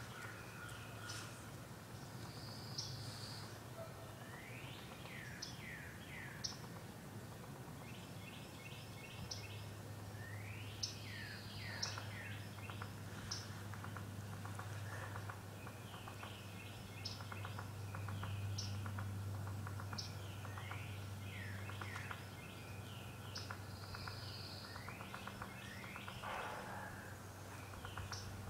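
Birds chirping and calling again and again in short high notes and quick trills, over a steady low hum.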